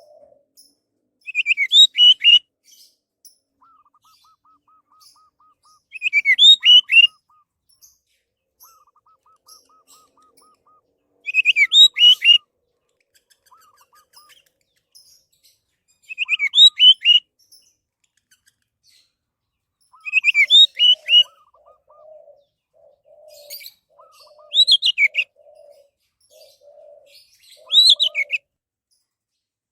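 Orange-headed thrush singing: short, loud phrases of quick rising and falling notes, repeated about every four to five seconds. Fainter trills from another bird sound between phrases, and a low repeated warble joins in the second half.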